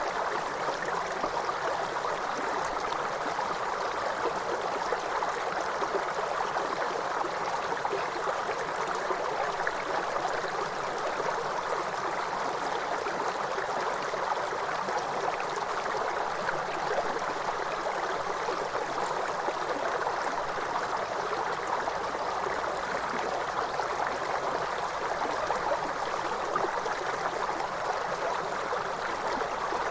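Waterfall: a steady, unbroken rush of falling water, its sound strongest in the middle range with little deep rumble.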